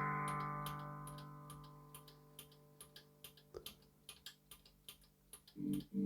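Guitar chord played through a Peavey UltraVerb digital effects processor, ringing and fading out over about two seconds. Faint, evenly spaced ticking follows, about three or four ticks a second, and a new chord is played near the end.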